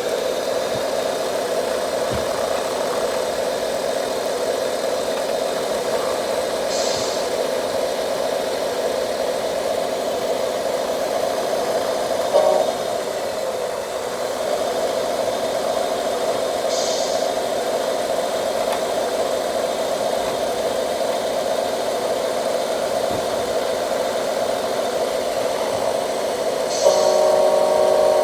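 1/14-scale RC truck running with a steady engine-like drone, a brief hiss about every ten seconds.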